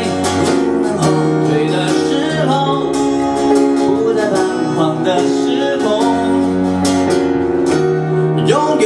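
Live band music in an instrumental passage of a pop song, led by strummed acoustic guitar over a steady bass line.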